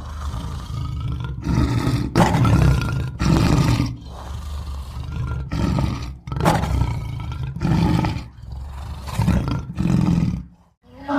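Bear roars and growls, a series of separate deep calls of about a second each, assembled as a creature sound effect from grizzly and cave bear recordings. The sound drops away almost to nothing near the end.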